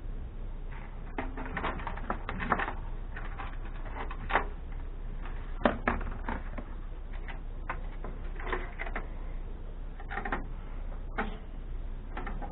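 Irregular clicks, rattles and rustling as the parts and wiring of an amplifier are handled and pulled apart, over a low steady hum.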